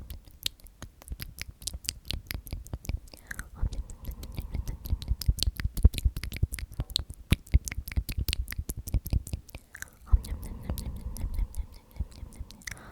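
Close-miked ASMR mouth sounds: rapid wet clicks and smacks from the word 'omnomnom' whispered over and over, densest in the middle.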